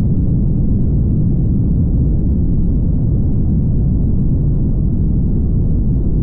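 Steady low rumble of a car driving at highway speed: tyre and road noise with wind, unchanging throughout.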